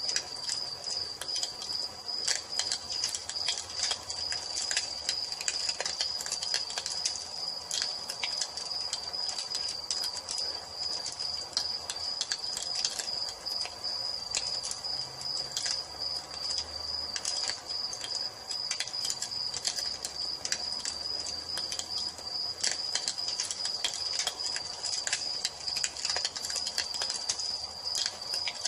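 Crickets chirping in a steady high trill over a crackling wood fire, with frequent sharp pops and snaps from the burning logs.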